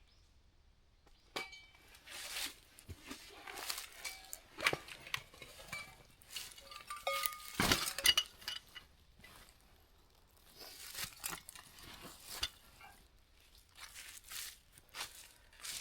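Irregular rustling and crinkling with a few light clinks, the sound of things being handled, in clusters with a lull in the middle.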